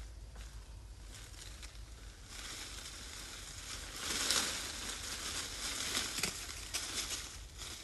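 Dry rustling and crackling with many short clicks, starting about two seconds in and loudest a little past the middle.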